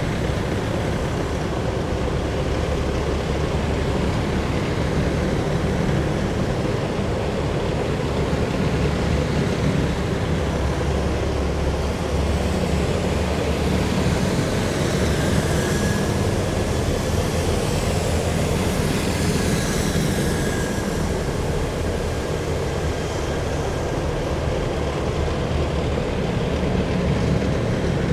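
A column of heavy military vehicles driving past, their diesel engines giving a steady deep rumble. A thin high whine rises and falls through the middle.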